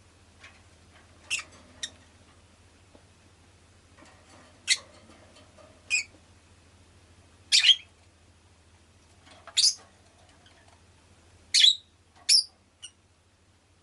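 Rosy-faced lovebird giving about nine short, sharp, high-pitched chirps, singly or in quick pairs, spaced a second or two apart.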